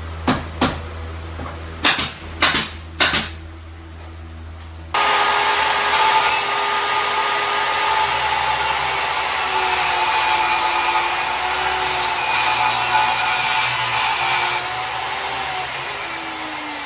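A handful of sharp taps or knocks, then an electric power tool motor switches on abruptly about five seconds in with a steady whirring whine. It runs for about ten seconds, then winds down with a falling pitch as it coasts to a stop.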